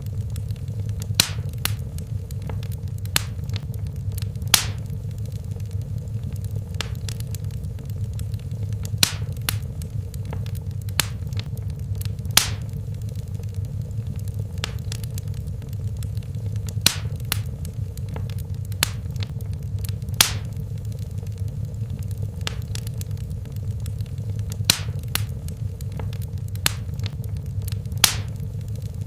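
Fire in a fireplace crackling: sharp, irregularly spaced pops, roughly one a second, over a steady low rumble of the flames.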